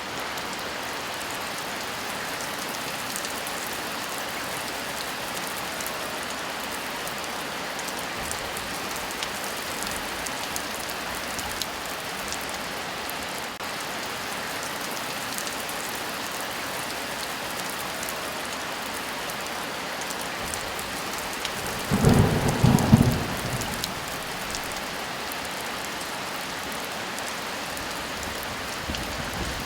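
Steady heavy rain, with one short clap of thunder rumbling for about two seconds near the end.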